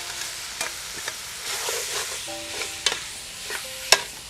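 Raw beef sizzling as it fries in hot oil and spice paste in a metal pot, stirred with a metal ladle that clicks and scrapes against the pot. A sharp clank of the ladle on the pot about four seconds in is the loudest sound.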